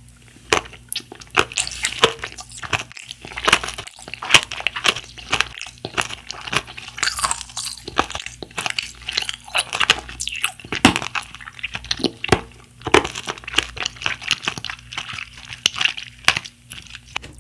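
Close-miked chewing of a bouncy blue gummy jelly with crunchy Galaxy Candy sprinkles: a continuous run of small crisp crunches mixed with wet squishy chewing, several a second.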